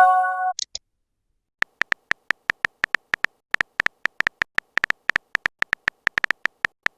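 Phone messaging sounds: a short electronic chime, a few steady notes together ending in a high blip, marks a message. After a pause comes a quick, uneven run of keyboard tap clicks as the next message is typed.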